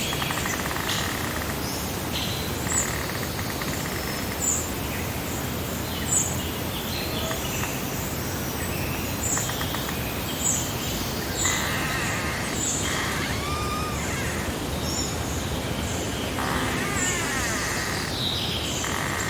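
Outdoor ambience of birds calling over a steady background rush. A short, high chirp repeats every second or two, with other birds' longer warbling calls coming in now and then.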